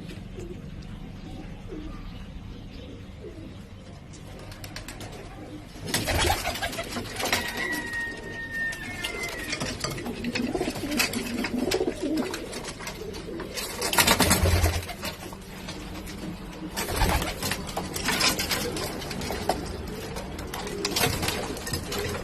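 Pigeons cooing, over a steady low hum. From about six seconds in, louder rustling and clattering joins in and continues in uneven spurts.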